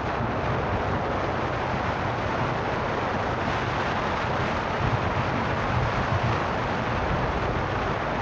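Steady running noise of a car being driven along a road: a low engine and tyre rumble under an even hiss.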